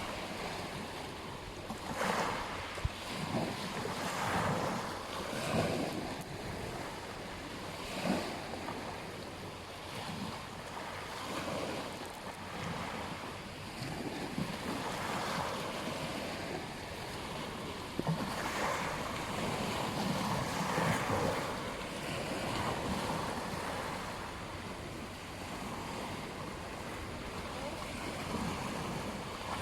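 Ocean surf washing onto a beach, with waves swelling and breaking every few seconds. Wind buffets the microphone.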